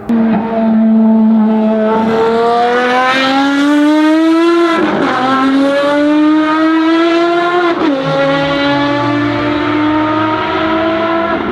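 Ferrari FXX Evo's V12 accelerating hard under full throttle, its pitch climbing through the revs, with two quick upshifts about five and eight seconds in, where the pitch drops sharply before it climbs again.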